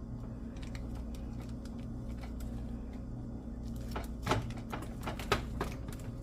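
Knife cutting through a baked pie crust: a few crisp crackles and scrapes in the second half, the sharpest about four and five seconds in, over a steady low hum.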